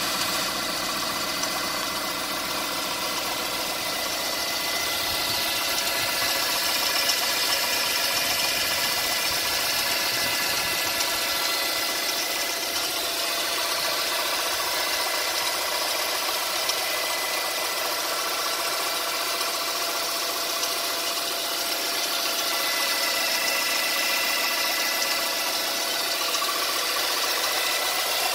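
Mercedes CLK 200 Kompressor's supercharged four-cylinder engine idling steadily with its serpentine belt removed, so the belt-driven accessories are not turning. A steady whine of several tones sits over the engine note.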